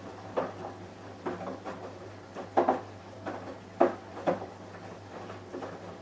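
Samsung Eco Bubble washing machine running a wash cycle: a steady low hum with irregular thuds as the laundry tumbles in the drum, the loudest about two and a half and four seconds in.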